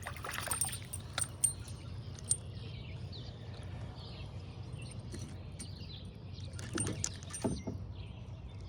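Small sounds of a kayak out on the water: water against the hull over a steady low rumble, with a few sharp clicks in the first couple of seconds and a couple of knocks about seven seconds in.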